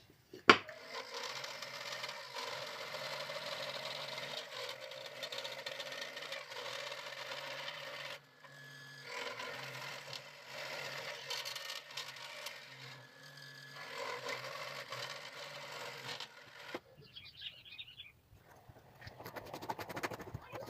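Small electric saw cutting out a piece of wood, running steadily with a short pause a few seconds in and stopping about three-quarters of the way through.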